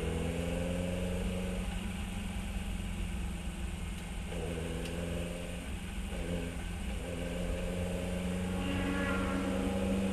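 Fiat 132 race car's four-cylinder engine running at moderate, fairly steady revs, its note shifting briefly around the middle as the throttle changes.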